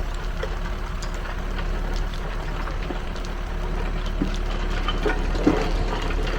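A backhoe loader's diesel engine runs steadily, with scattered light knocks and rattles, the loudest about five and a half seconds in.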